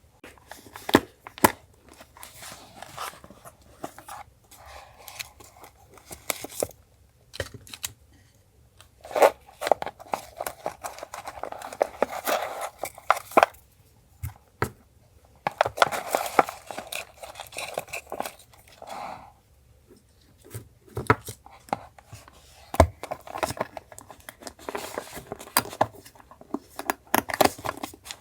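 Paper being handled up close for collage journaling: stretches of tearing and crinkling, broken by scattered sharp clicks and taps.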